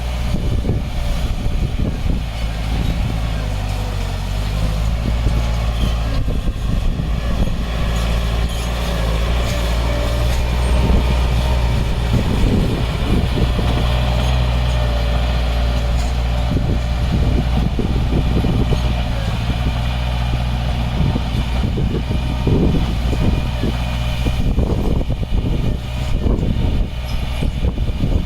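Diesel engine of a heavy earthmoving machine running steadily under load. Irregular rough rumbling joins it through the second half.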